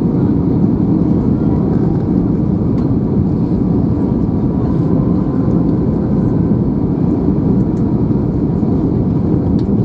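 Steady low rumble inside the cabin of an Airbus A321 taxiing after landing, its engines running at idle.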